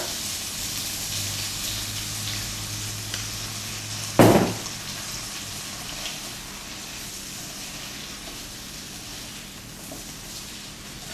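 Vegetables sizzling as they are stir-fried in hot oil in a pan, the sizzle slowly fading. One loud knock about four seconds in.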